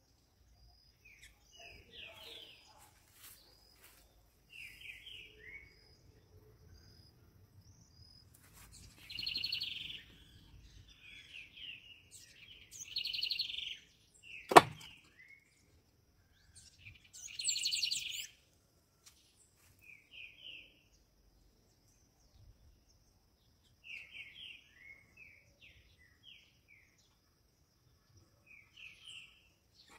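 Small birds chirping in short bursts on and off, with one sharp knock about halfway through that is the loudest sound.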